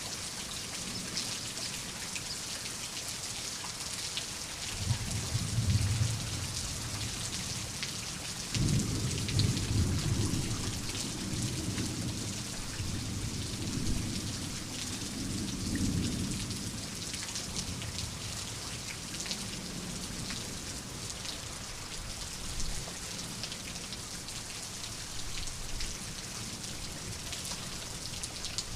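Steady heavy rain hissing and pattering, with thunder rumbling: a first low rumble about five seconds in, then a louder one that breaks suddenly a little past eight seconds and rolls on, fading, for about eight seconds.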